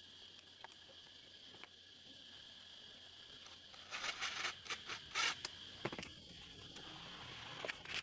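Light handling sounds: scattered clicks and scrapes, with a short cluster of scraping and clinking about four to five and a half seconds in, over a steady high hiss.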